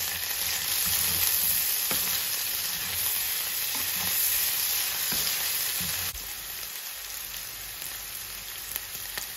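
Sliced potatoes, onions and diced ham sizzling in clarified butter in a frying pan while a spatula stirs them, with a few light scrapes and taps. The sizzle drops to a quieter level about six seconds in.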